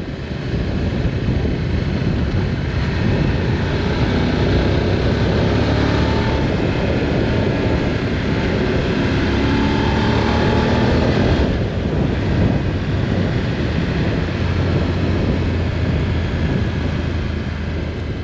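Motorcycle engine running steadily while riding, under a loud rush of road and wind noise; the engine note shifts in pitch now and then.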